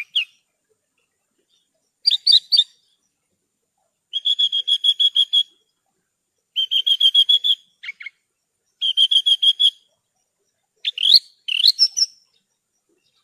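Javan bush lark (branjangan) singing in separate phrases. A short burst of notes comes first, then three rapid trills of evenly repeated chirps, and quick rising notes near the end.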